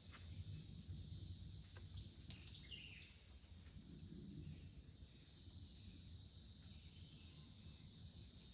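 Faint natural outdoor ambience: a steady high insect-like hum with a brief bird chirp about two and a half seconds in, over a low rumble.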